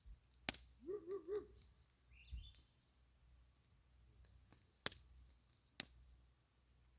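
Campfire crackling: a few sharp, isolated pops from the burning wood. About a second in comes a short three-pulse call, and a high chirp follows soon after.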